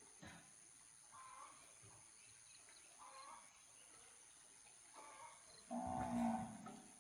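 A farm animal gives one loud, pitched call about a second long near the end, after three faint shorter calls.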